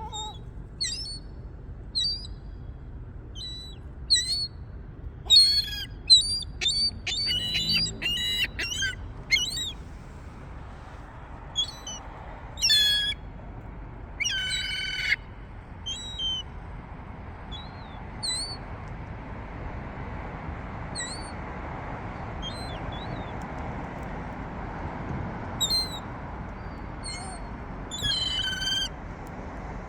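Gulls calling: many short squawks and cries, a quick flurry of them between about five and nine seconds in, and two longer calls soon after, over a steady low background noise.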